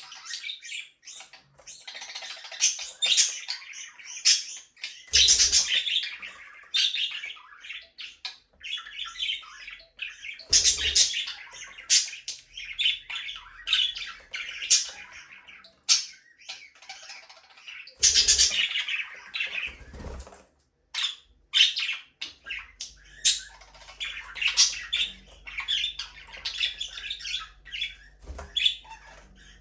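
A flock of budgerigars chirping, chattering and squawking continuously, with rapid high warbling calls, and occasional thumps and a brief flutter of wings.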